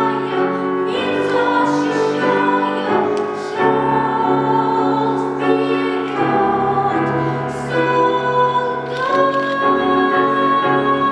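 A child singing in classical academic style with piano accompaniment, ending on a long held high note.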